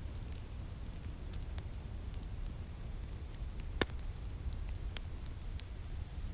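Wood fire crackling with scattered sharp pops, one louder pop a little past the middle, over a steady low rumble of winter wind.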